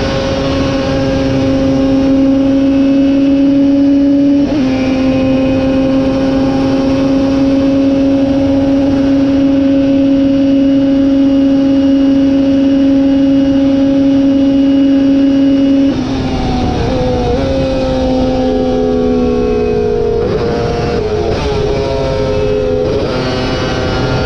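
Racing motorcycle engine held at high revs at wide-open throttle, with one quick upshift about four seconds in. About two-thirds of the way through the throttle closes and the engine note drops in a series of steps as it downshifts under braking, then it picks up again near the end.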